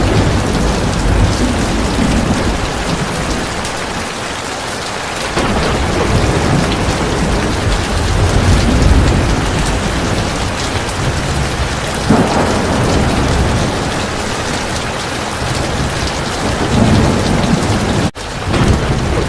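Heavy rain falling steadily, with low rolling rumbles of thunder that swell and fade several times. The sound cuts out for an instant near the end.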